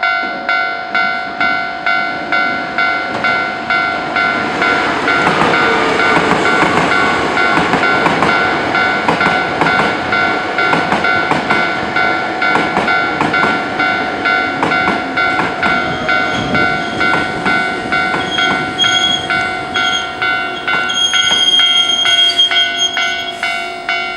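Hankyu Railway train passing a level crossing: a rush of train noise with wheels clacking over rail joints, while the crossing's warning bell dings about twice a second throughout. A thin high squeal rises near the end, and the bell stops right at the close.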